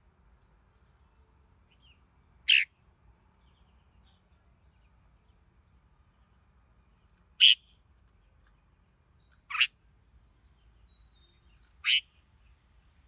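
Red-whiskered bulbul giving four short, sharp call notes a few seconds apart, with a faint thin falling whistle between the last two.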